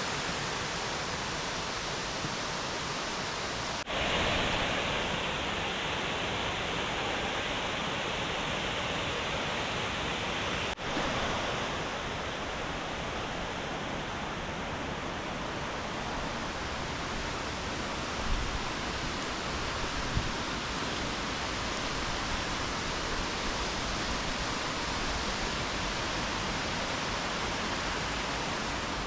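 Kaaterskill Falls pouring down its lower tier: a steady rush of falling water. The rush changes abruptly twice, about 4 and 11 seconds in, getting louder and brighter after the first change.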